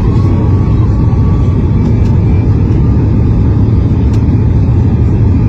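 Steady, loud low rumble of a Boeing 737's jet engines and airframe heard from inside the cabin during the takeoff, with a faint whine in the first second or so.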